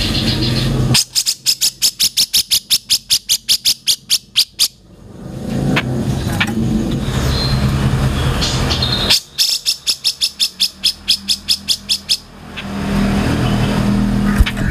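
Cucak jenggot (grey-cheeked bulbul) calling in two long, rapid rattling series of sharp notes, about eight a second, each lasting a few seconds. A steady low hum like traffic lies underneath.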